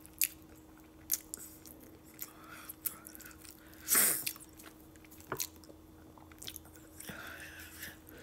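Close-up chewing of a mouthful of fried chicken, with soft wet smacks and clicks. A louder mouth sound comes about four seconds in. A faint steady hum runs underneath.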